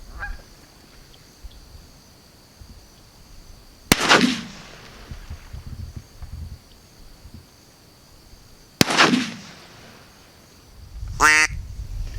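Two shotgun blasts about five seconds apart, each echoing briefly, fired to finish a wounded Canada goose. Near the end comes a short goose honk.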